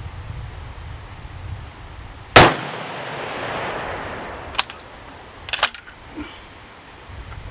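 A single rifle shot from a heavy-build 6.5 Creedmoor bolt-action rifle, its report rolling away over about two seconds, followed by a few sharp metallic clicks.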